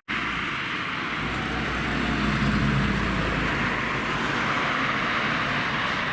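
A car's engine running at low speed as it goes by, a low hum that swells about two seconds in and then eases, over a steady hiss of road noise.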